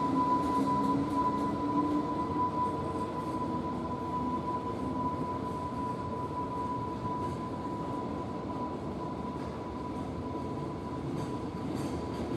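Container freight train's flatcars rolling past at close range: a steady rumble of wheels on rail with occasional clicks, and a steady high whine over it.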